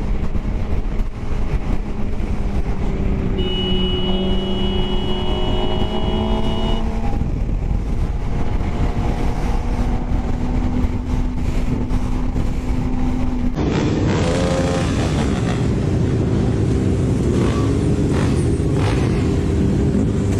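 Motorcycle engine running under steady wind and road noise, heard from a camera on the moving bike. The engine revs up a few seconds in. About two-thirds of the way through the sound cuts abruptly to another ride, where the engine revs up briefly again.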